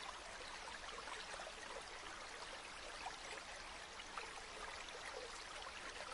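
Gently flowing river water: a steady rush dotted with many small trickles and splashes.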